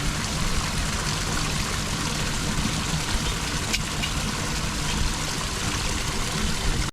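Floodwater flowing steadily down a cleared storm drain.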